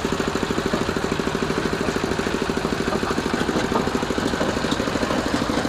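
Changchai L24 single-cylinder diesel engine running steadily, with a rapid, even beat of firing pulses and no change in speed.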